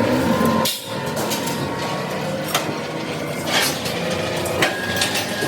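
Several sharp metal knocks, like hammer strikes on steel, roughly a second apart, over a steady din of machinery.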